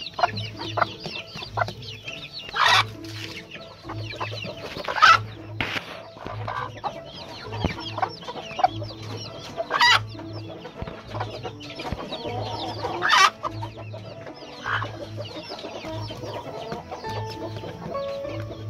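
A yard of gamefowl roosters and hens clucking and calling together, with several louder calls standing out, over background music with a steady beat.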